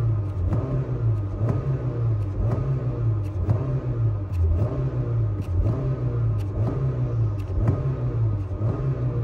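Honda car engine revved over and over by pumping the gas pedal, its pitch rising and falling in short, repeated swells.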